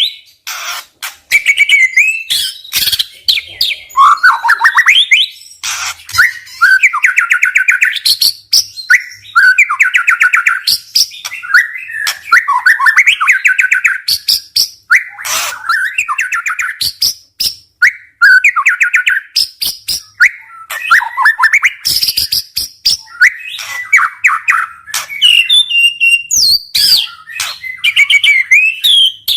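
Murai (a Copsychus songbird) singing loud, varied phrases of rapid trills, whistles and sharp clicking notes in quick succession, one phrase after another with hardly a pause. This is the fast, aggressive 'nembak' song that keepers play to provoke other murai.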